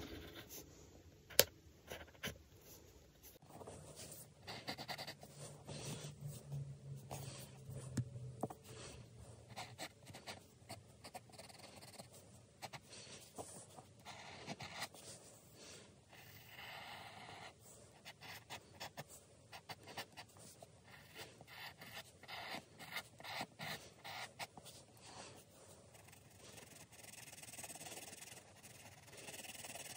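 Drawing strokes scratching on paper: many short, irregular strokes, faint throughout.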